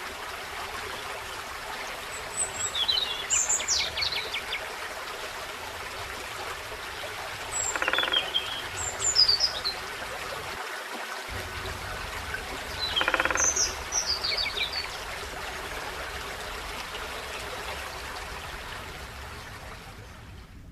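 Forest stream running steadily, with a small songbird singing three short bouts of high chirps about three, eight and thirteen seconds in. The sound fades out gently near the end.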